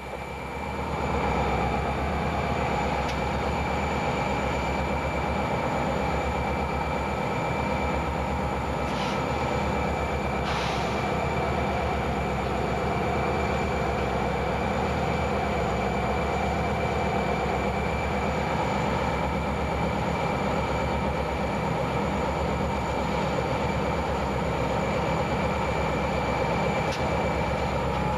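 Diesel locomotive engines running at a steady idle close by, a constant low hum, with two short noises about nine and ten seconds in.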